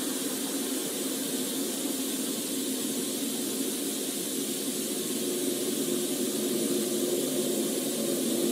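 Steady noise inside a police patrol car's cabin: a constant hiss with a low hum beneath it.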